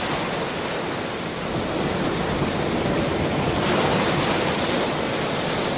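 Ocean surf washing onto a shore: a steady rush of breaking waves that swells a little more than halfway through.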